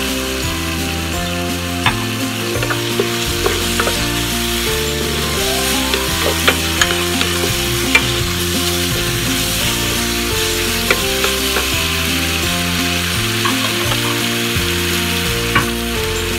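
Onions and tomatoes sizzling in sauce in a frying pan, stirred with a wooden spatula that knocks and scrapes against the pan now and then, over background music.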